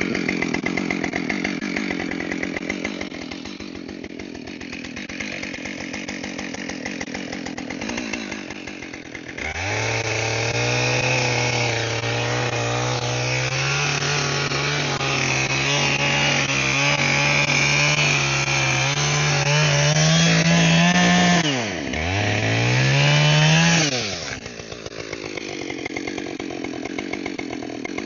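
Two-stroke chainsaw running at a low, part-throttle note for about nine seconds, then going to full throttle and cutting into a red oak log, its pitch climbing slowly through the cut. Near the end it drops sharply, revs up once more, and settles back to idle.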